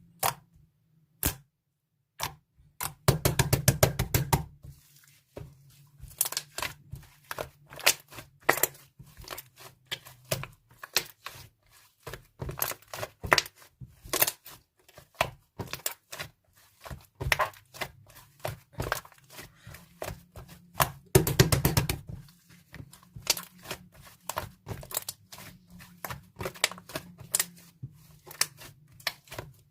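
Hands squishing and poking slime, giving an uneven string of sharp clicks and pops from trapped air. There are two stretches of fast crackling, a few seconds in and again about two-thirds of the way through.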